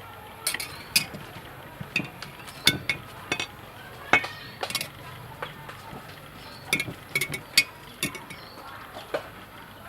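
Kitchen utensils knocking and clinking during food preparation: about a dozen sharp strokes at irregular intervals, some with a short metallic or glassy ring.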